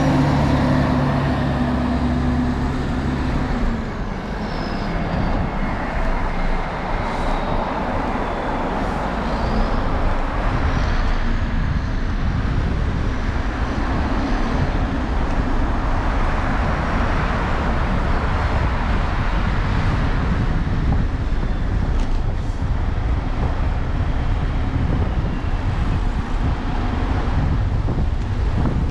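City street traffic noise, a steady dense rush of passing vehicles. A heavy vehicle's engine hums steadily for the first three or four seconds, then fades into the traffic; a few faint high squeals come and go a few seconds later.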